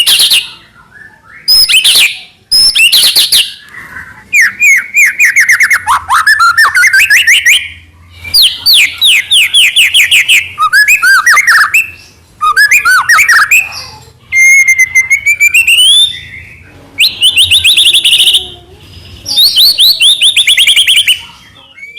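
White-rumped shama (murai batu) singing loudly and continuously, in phrases of rapid whistles, sweeping notes and trills, each a second or two long with short breaks between them.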